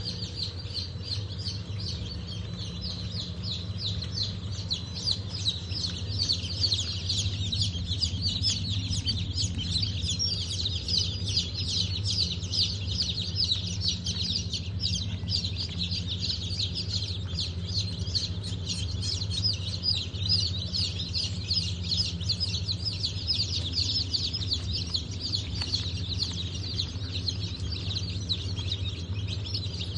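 A crowd of newborn chicks and ducklings peeping constantly, many short high falling chirps overlapping, over a steady low hum.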